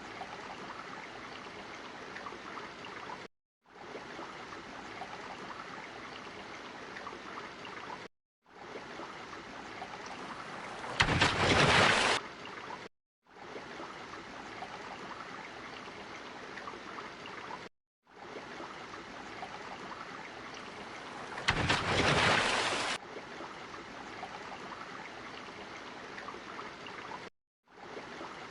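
Steady water noise in the manner of an ocean or underwater ambience, repeating in stretches of a few seconds broken by brief silences. Twice there is a louder rush of water lasting about a second.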